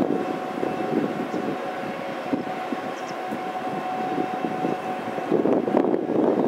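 Passenger train at a station platform: a steady rumble with a faint held whine from the train, which fades about five seconds in, mixed with wind buffeting the microphone.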